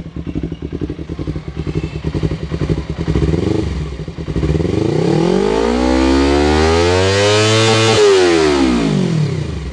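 Yamaha R25's parallel-twin engine through an aftermarket Sakura exhaust, idling with a lumpy pulsing beat. About four and a half seconds in it is revved steadily up for roughly three seconds, then let drop quickly back to idle near the end.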